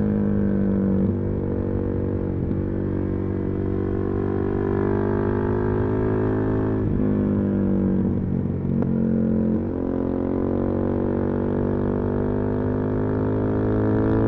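Suzuki DR-Z400SM's single-cylinder four-stroke engine through a full Yoshimura exhaust, heard from the rider's position while riding. The engine pitch drifts up and down and shifts abruptly several times as throttle and speed change.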